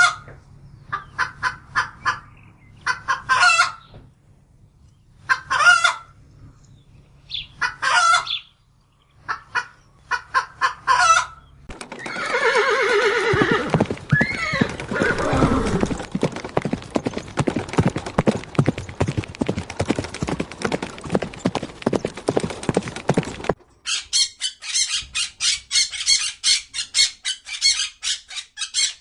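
Hens clucking in short repeated calls. About twelve seconds in, a horse whinnies in a falling call, followed by a long stretch of steady noisy sound. Near the end, a small bird chirps in a rapid, even series.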